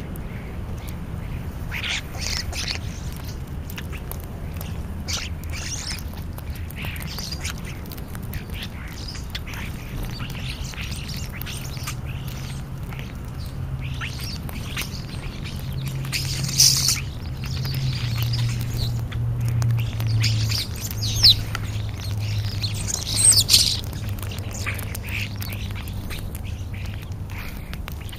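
Scattered bird calls, short squawks and chirps coming every few seconds, over a steady low hum.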